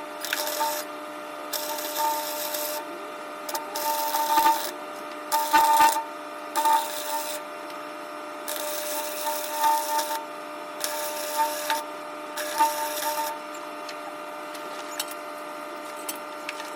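Welding a chrome exhaust tip onto the exhaust pipe: about nine short bursts of arc crackle, each about a second long, with pauses between them as the tip is tacked and welded around. The bursts end near the end, and a steady hum runs underneath throughout.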